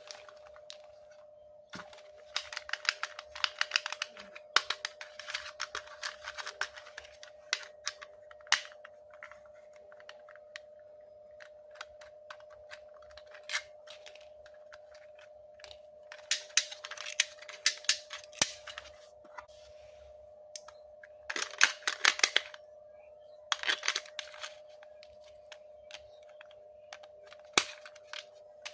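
Toy packaging being handled: plastic and cardboard crackling and rustling in several bursts, with a few sharp clicks, over a steady faint hum.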